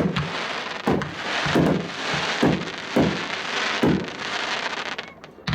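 A 21-shot 500-gram consumer fireworks cake (Spider Nebula) firing: about seven sharp bangs, roughly one every half second to a second, with a dense crackling noise between them.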